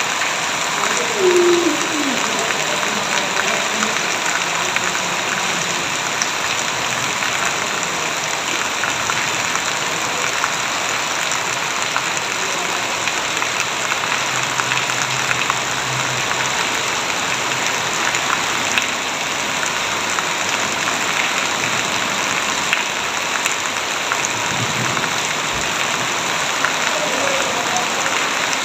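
Heavy rain falling steadily: a dense, even hiss with scattered sharper drop ticks, and a brief louder falling sound about a second in.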